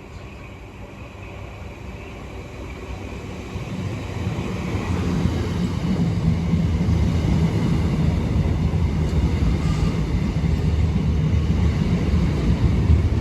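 Southeastern Class 466 and Class 465 Networker electric multiple unit on the move, a low rumble with a steady hum that builds over the first six seconds and then holds.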